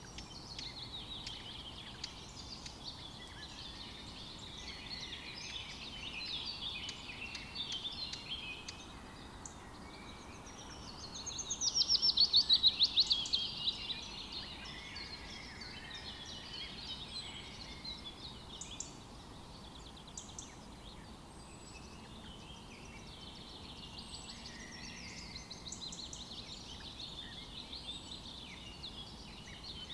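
Several songbirds singing and chirping together, with one louder, rapid trill about twelve seconds in.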